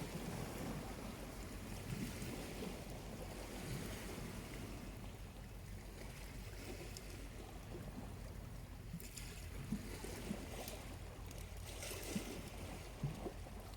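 Small waves washing in on a quiet beach, a steady low wash with two swells of hiss as waves break, about 9 and 12 seconds in. A few faint crackles from a slowly burning charcoal campfire come through near the end.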